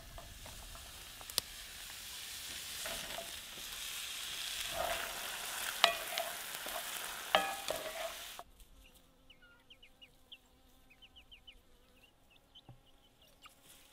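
Sliced wild mushrooms sizzling in olive oil in a cast iron skillet, the sizzle building as they fry, with a few scrapes of a wooden spatula stirring them. The sizzle cuts off suddenly about eight seconds in, leaving faint high chirps.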